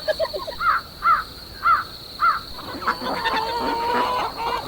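A bird calling: four short calls that rise and fall, about half a second apart, over a steady high whine. In the second half they give way to a busier jumble of sounds with a held tone.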